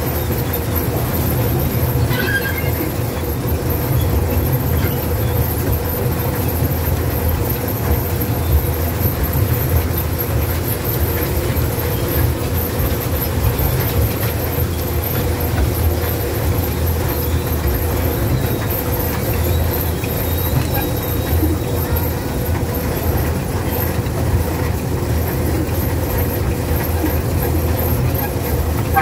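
Amusement-park miniature ride train running along its track, heard from a seat on board: a steady low rumble with a steady hum over it.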